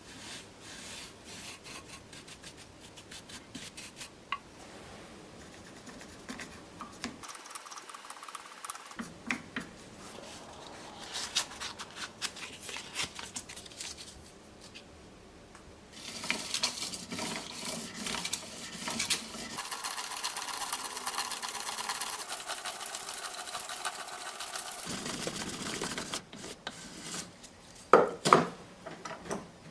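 Sterling silver bracelet links being filed and sanded, with irregular rasping and rubbing strokes and a denser, steadier stretch of sanding in the middle. Near the end come a couple of sharp metallic clinks.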